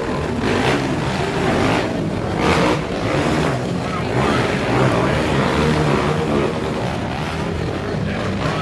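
Quad ATV engines racing on a dirt track, revving up and backing off again and again.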